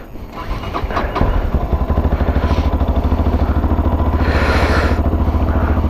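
Tekken 250 motorcycle engine starting after a few clicks about a second in, then idling steadily with an even pulse. A short hiss comes about four seconds in.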